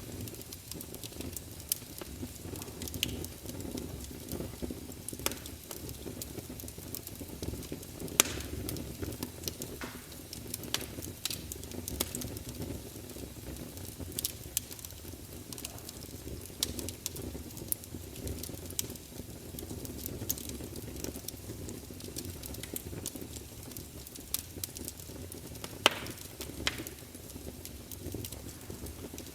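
Campfire burning with a steady low rumble and irregular sharp crackles and pops of the burning wood, a few of them louder, about 8 seconds in and again near the end.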